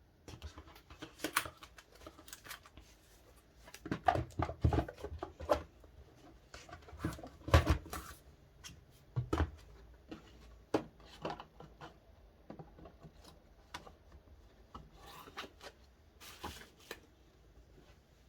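Handling noises from unboxing a DVD set: the packaging, case and photocards are rustled, tapped and set down in scattered clicks and knocks, the loudest bunched about four, seven and a half and nine seconds in.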